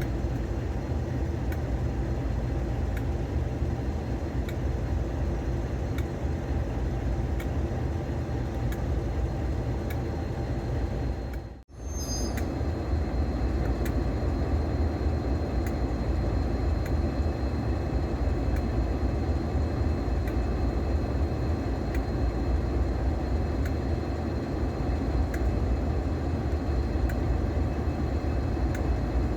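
A train running: a steady low rumble and drone with light clicks about every second and a half, broken by a sudden brief dropout about twelve seconds in.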